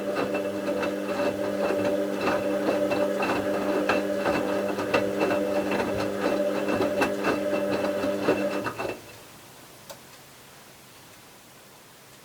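Bauknecht WA 7778 W washing machine giving a steady electric hum with a busy rattle of clicks over it. The hum cuts off sharply about nine seconds in, and a single click follows a second later.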